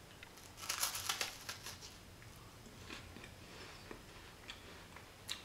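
Biting into a crisp wafer cookie: a quick run of crunching crackles about a second in, then fainter, scattered chewing crackles.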